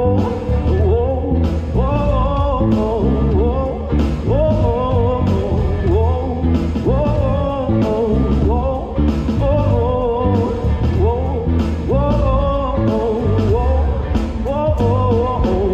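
Live band playing a blues-rock groove with electric guitar, bass and drums, a melodic lead line bending in pitch over steady drum hits.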